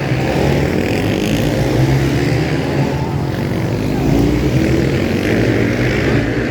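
Supermotard racing motorcycles running hard, engine notes rising and falling as they rev and change gear.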